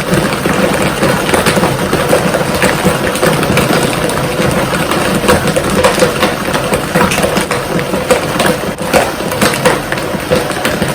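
Countertop blender running steadily, crushing ice into a smoothie: a constant motor whine under a dense crackle of ice chunks striking the blades.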